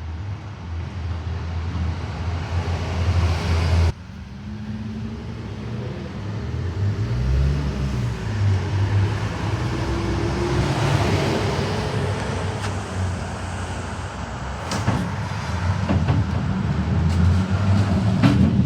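Heritage electric tram running along street track, heard on board: a low motor hum and wheel-on-rail noise, with a whine that rises in pitch partway through and a few sharp clicks near the end.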